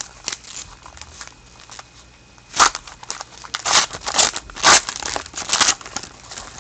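Trading cards and their packaging being handled: a run of crinkling, rustling bursts, loudest in the second half.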